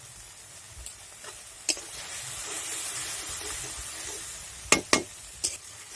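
Masala paste sizzling in hot oil in a pan while it is stirred and fried, with a few sharp knocks of the spatula against the pan, the loudest two close together near the end.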